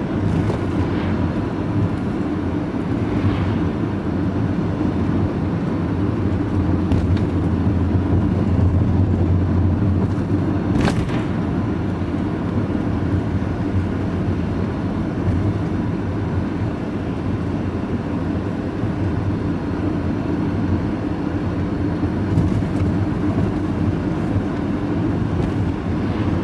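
Steady engine and road noise heard from inside the cab of a vehicle driving at steady speed, with one sharp click about eleven seconds in.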